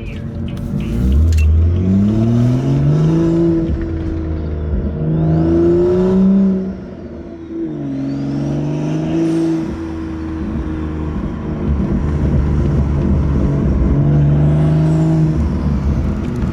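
Ford Mustang GT's 5.0 V8 accelerating hard through a full MBRP aftermarket exhaust. The engine note rises, drops briefly about halfway through as it shifts or lifts, then climbs again and holds.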